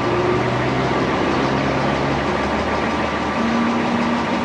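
A motor vehicle engine idling steadily with a low hum.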